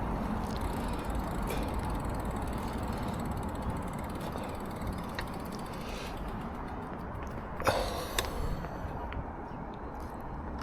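Bicycle freewheel ratcheting over a steady rumble of wind and tyres, with scattered light clicks and a sharper brief clatter about eight seconds in.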